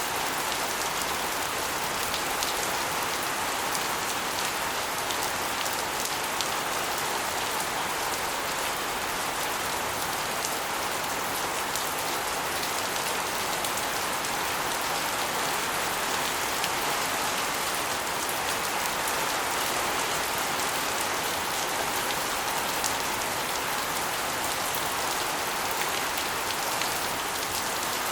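Steady rain, with water spilling off the edge of an asbestos roof and splashing onto a concrete floor and walls: a dense, even patter of many small drops and splashes.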